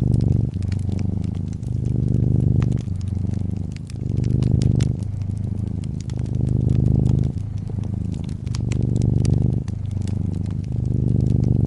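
A brown tabby cat purring, a low drone that swells and eases with each breath about every two seconds, with the scattered sharp crackles and pops of a fireplace fire over it.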